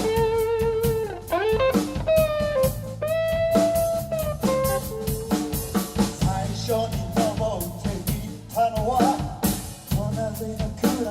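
Live band playing a blues-style number: a lead guitar line with bent, sliding notes over a drum kit and a steady bass.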